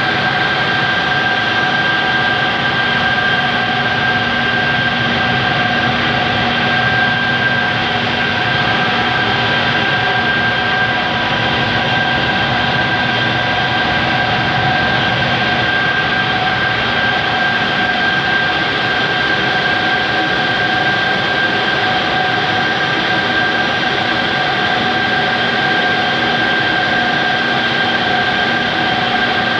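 Two-stage centrifugal compressor running steadily: a loud, even mechanical drone with a constant high whine over a hiss.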